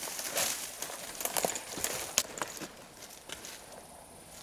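Footsteps moving through forest undergrowth, with irregular rustles and crisp snaps of twigs and leaf litter. The sharpest snap comes about two seconds in.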